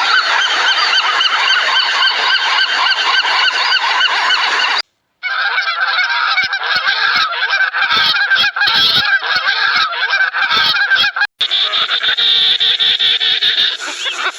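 A large flock of birds calling all at once, many honking calls overlapping, in three clips cut together with brief silent breaks about five and eleven seconds in.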